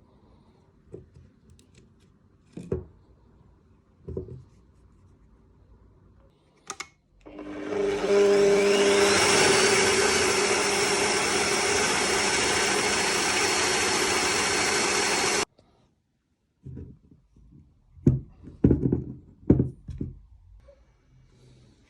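A few light knocks, then an electric power tool spins up with a rising whine, runs steadily for about eight seconds and cuts off sharply, followed by a quick series of knocks and taps.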